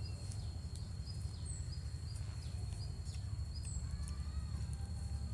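Small birds chirping, with short falling calls repeated throughout, over a steady low rumble and a thin steady high-pitched tone.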